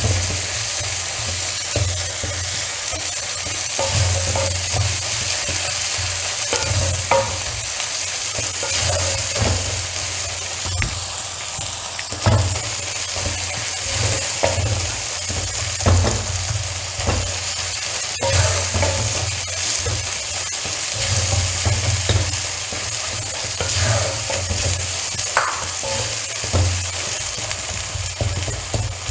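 Chopped onion, tomato, ginger and garlic sizzling steadily in coconut oil in a cheenachatti (Indian wok) while a spatula stirs and scrapes the pan in irregular strokes. The mixture is being fried toward brown and, from the ginger, is starting to catch on the bottom of the pan.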